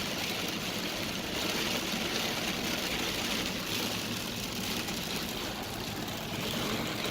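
Heavy storm rain beating on a car, a steady even hiss, with the car's low rumble underneath.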